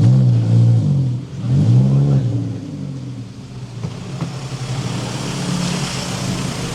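A car engine revved twice in quick succession, the pitch rising and falling each time, then running steadily.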